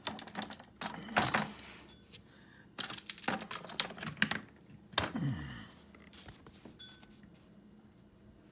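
Hot Wheels Track Builder plastic track pieces being handled and snapped together, in irregular bursts of sharp clicks and clatter. There is a brief falling tone just after five seconds.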